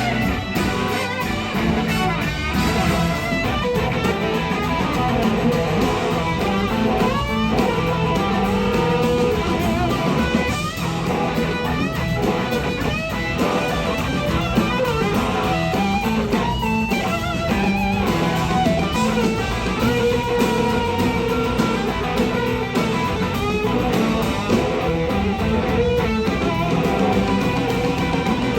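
Live band with an electric slide guitar soloing over it, the lead line sliding up and down in pitch.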